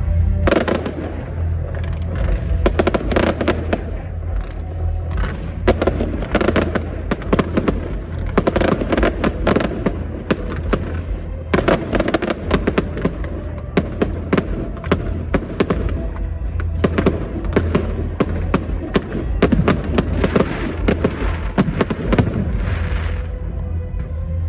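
Fireworks display: a dense, continuous string of bangs and crackling bursts, some louder than others, with no real pause.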